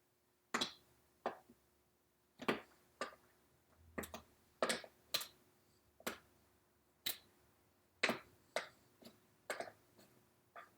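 Irregular sharp clicks, one or two a second, as a thin prying tool lifts a metal tack strip off a recliner's wooden wing frame.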